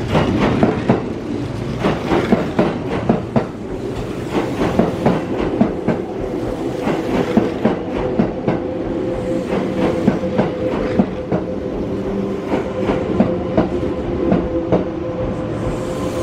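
Kintetsu limited express electric train rolling slowly past along the platform, its wheels clacking over rail joints and points with a steady rumble and a faint steady hum underneath.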